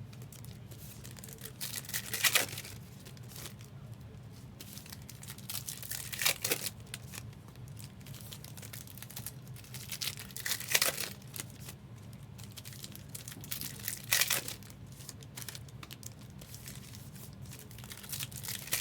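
Trading card pack wrappers crinkling and tearing as packs are opened, with a louder rustle about every four seconds over a steady low hum.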